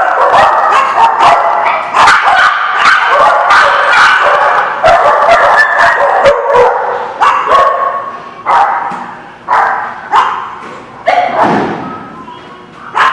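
Several dogs barking over one another in a rapid, continuous din. Past the middle it thins to single barks about a second apart, each with a hard echo after it.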